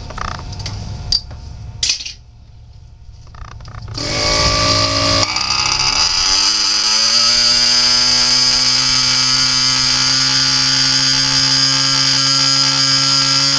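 The engines of an RC twin-engine racer start about four seconds in. Their pitch climbs for a couple of seconds, then they settle into a steady, high-pitched buzz that carries on.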